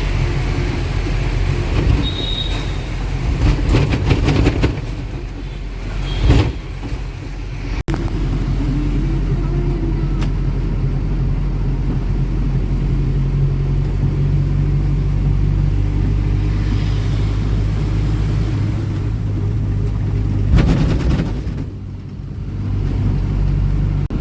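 Ashok Leyland Ecomet truck's diesel engine running under way with road noise, a steady low hum, and a couple of louder rushes of noise, one about a quarter of the way in and one near the end.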